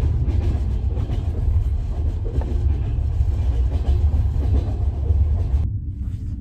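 Low, steady rumble of a second-class sleeper-train carriage running on the rails, heard from inside the compartment. It drops away suddenly near the end.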